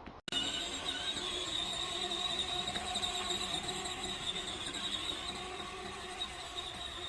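Electric motors and gearboxes of a 24-volt ride-on toy car whining steadily as it drives, a high steady whine with lower tones beneath it. The sound cuts out for a split second right at the start.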